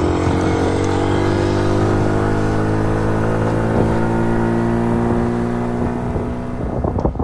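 Small dirt bike engine running steadily, its pitch slowly falling as the revs ease off, then breaking up near the end.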